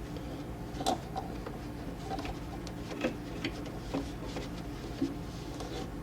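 Scattered light taps and knocks from hand-cleaning around a refrigerator's condenser coil and lines, about one a second, over a steady low hum.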